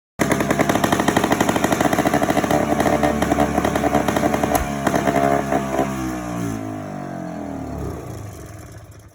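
Sachs SA280 single-cylinder two-stroke engine of a late-1960s Sno Prince snowmobile running with a fast, even putter after its points condenser and coil were replaced. About six seconds in its pitch falls and the sound fades out near the end.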